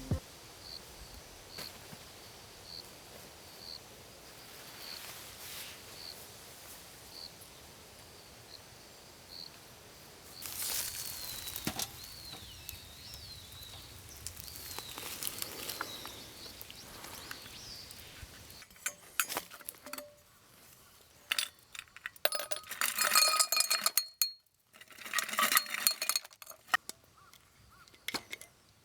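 Faint high chirps repeating about one and a half times a second, with a few gliding calls, then a run of sharp clinks and clatter with a ringing tone in the second half.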